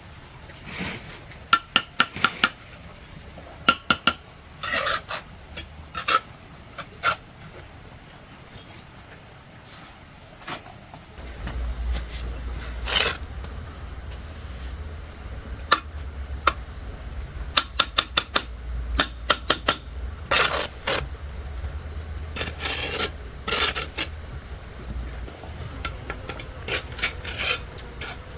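Tools scraping and clinking against hard material, with runs of sharp clicks and knocks. A low steady rumble comes in about a third of the way through.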